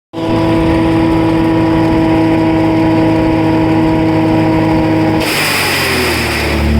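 Wood Chuck wood chipper's engine running at a steady high speed. About five seconds in, a harsh rushing noise joins it and the engine pitch sags lower, the engine taking on load.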